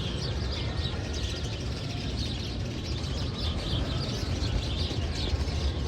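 Many birds chirping at once in a dense, continuous chorus, over a steady low rumble.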